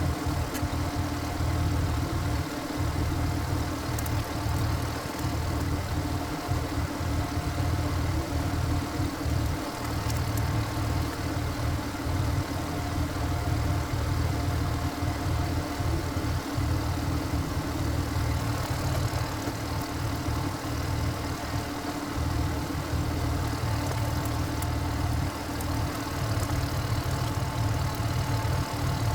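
Single-cylinder diesel engine of a walk-behind power tiller running steadily at an even speed.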